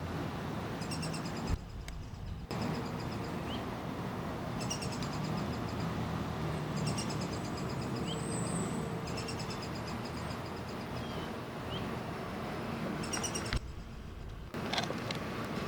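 Downy woodpecker calling in several short bouts of rapid, evenly spaced high notes, over a steady background hiss.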